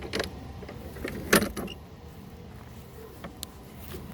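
Clicks and knocks from handling mower parts and tools: a few light clicks, one louder knock about a second and a half in, then scattered small ticks.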